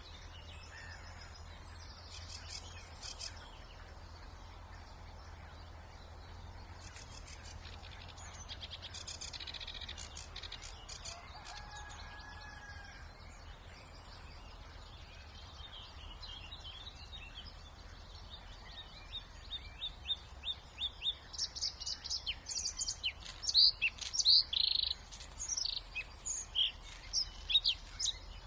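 Bluethroat singing close to the microphone: a loud, fast, varied song of short high notes and trills that starts about two-thirds of the way in. Before it, fainter songs of other birds, over a steady low background hum.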